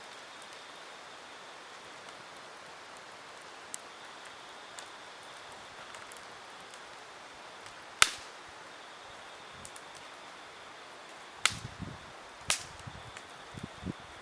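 Campfire burning with a steady hiss and sharp crackling pops, the loudest about eight seconds in and two more about four seconds later, with a few soft low thumps near the end.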